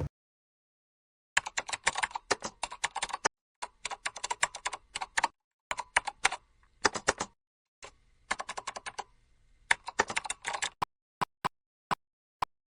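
Rapid keyboard typing clicks in about six runs with dead silence between them, then a few single clicks near the end.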